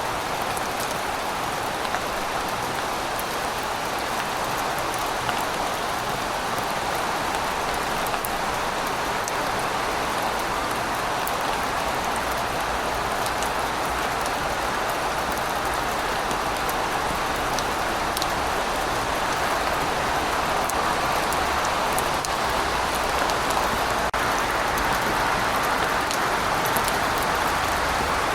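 Steady rain falling: an even hiss with scattered sharp ticks of single drops striking a surface. A faint low rumble runs underneath from about the middle on.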